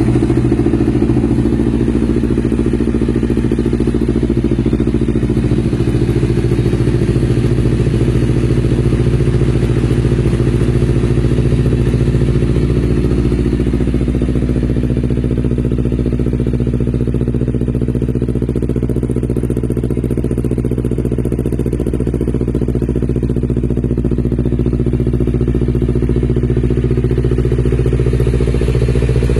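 Honda CBR250RR's parallel-twin engine idling steadily through its exhaust.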